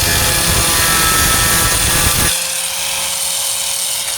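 High-speed power cutting tool biting into the sheet-steel tailgate, then easing off the cut suddenly a little over two seconds in, its motor still running with a steady whine.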